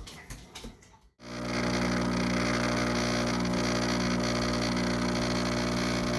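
Background music fades out in the first second. Then a coffee maker runs with a steady electric hum.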